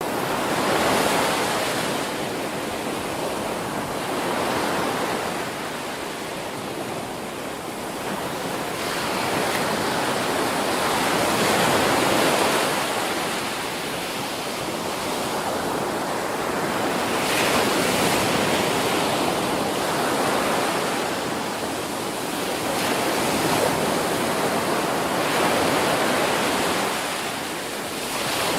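Ocean surf: waves breaking and washing in, a steady rush that swells and eases every few seconds.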